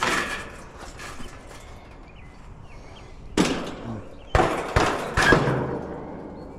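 Several sharp knocks and clunks at irregular intervals: a loud one about three and a half seconds in, then three more in quick succession over the next two seconds.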